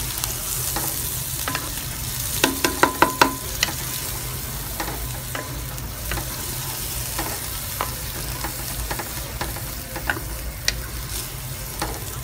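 Curry paste of chili paste, tomato purée and blended aromatics frying in a pan, sizzling and spitting from the water in the freshly added blended ingredients while a wooden spatula stirs it. About two seconds in comes a quick run of about five sharp knocks, the spatula against the pan, and scattered small pops follow.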